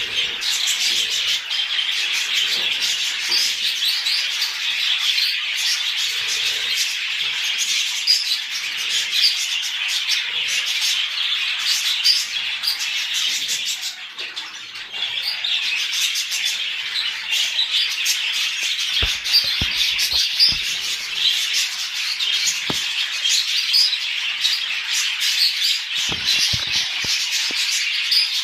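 A flock of budgerigars chattering and chirping without pause, with a brief lull about halfway and a few soft knocks later on.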